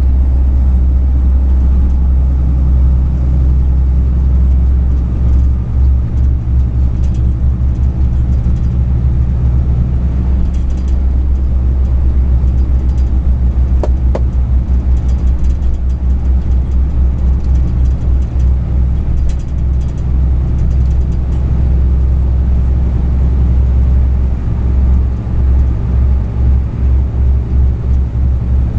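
Truck engine and road noise heard inside the cab: a steady, heavy low rumble that throbs unevenly through the middle. A single short click about halfway through.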